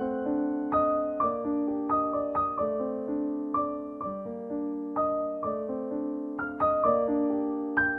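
Background music: a gentle solo piano melody with notes struck in a steady, unhurried rhythm.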